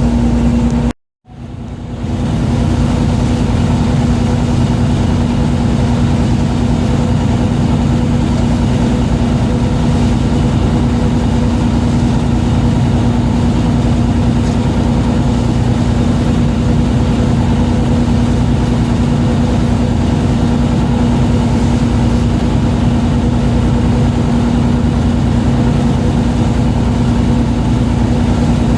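A boat's engine running steadily with a constant hum over a rushing noise. The sound cuts out for a moment about a second in, then fades back up.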